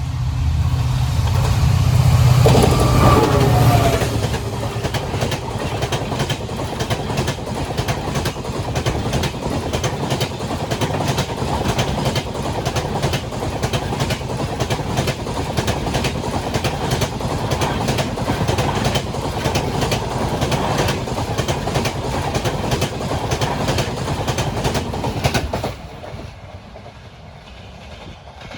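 WDP4D diesel-electric locomotive passing at speed, its low engine hum loudest for the first few seconds. The express's coaches follow, rattling by with a fast, steady clickety-clack of wheels over rail joints. The noise drops away suddenly near the end as the last coach passes.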